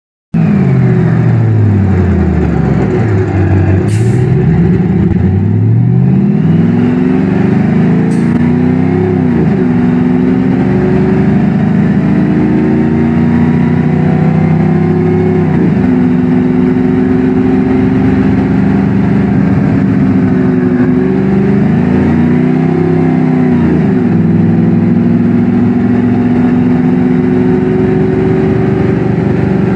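Ford 7.3L Godzilla gasoline V8 in a Blue Bird Vision school bus accelerating hard. The engine pitch dips and then climbs from about four seconds in, and breaks and resettles three or four times as the bus shifts up through the gears. Two short sharp clicks come about four and eight seconds in.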